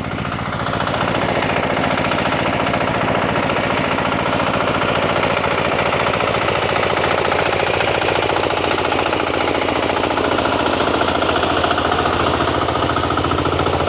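An engine running steadily at constant speed, with a fast, even knocking beat.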